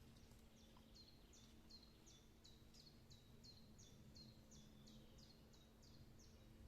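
Faint bird song: a small bird repeating a short high note that drops in pitch, about fifteen times at roughly three a second, over a faint steady low hum.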